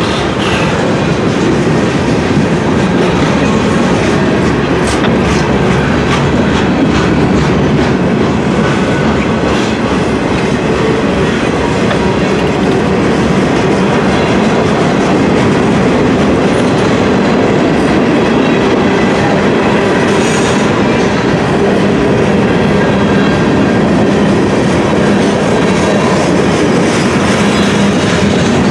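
Freight cars (boxcars, covered hoppers and tank cars) rolling past close by: a steady, loud rumble of steel wheels on rail.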